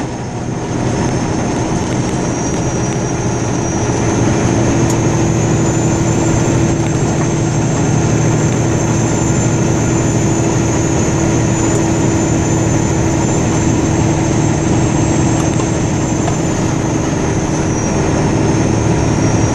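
Steady engine and road noise inside a moving vehicle's cabin, with a faint high whine that rises slightly a few seconds in and eases back down near the end.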